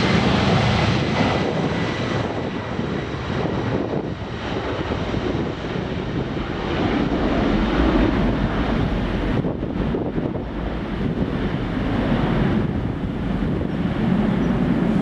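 Airliner engine and airflow noise: a steady rush with slow swells in loudness.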